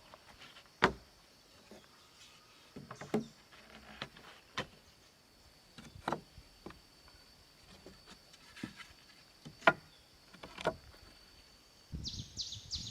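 Irregular sharp knocks and taps, about half a dozen, the loudest about a second in and near ten seconds, over a steady high-pitched insect drone. Birds chirp near the end.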